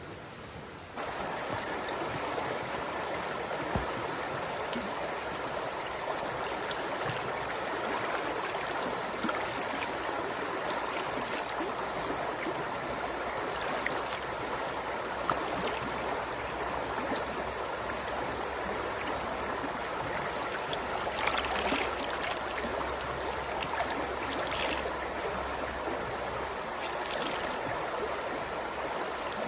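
Steady rush of a flowing stream, starting abruptly about a second in and holding even throughout, with a few faint clicks.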